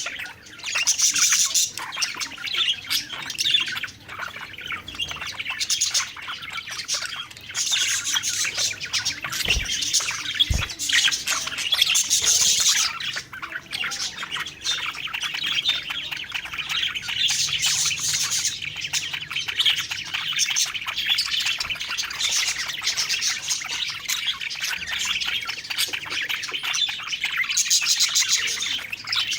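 Several budgerigars chattering and chirping continuously in a dense, busy warble. Two brief low thumps sound about ten seconds in.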